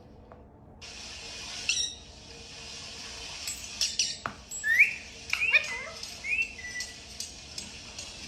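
Parrot chirping and whistling: a run of short, bending whistled chirps about halfway through, over a steady hiss, with a few sharp clicks.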